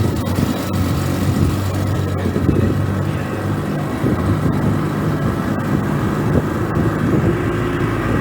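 An engine running steadily, its low even hum continuing with little change.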